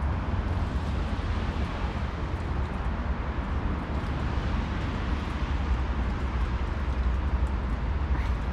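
Steady low outdoor rumble with no distinct events, such as wind buffeting the microphone or distant traffic; no meowing is heard.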